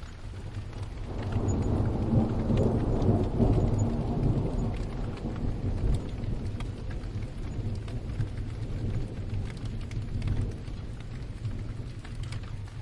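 Steady rain, with a roll of distant thunder that swells about a second in, peaks over the next couple of seconds and then slowly dies away under the rain.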